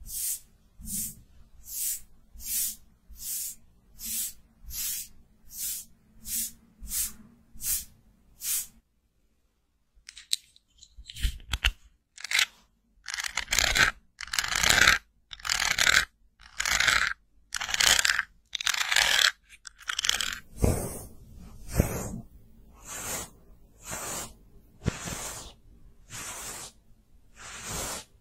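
Rhythmic scratchy brushing strokes of a makeup tool, about three every two seconds. They stop briefly about nine seconds in, then come back louder and fuller.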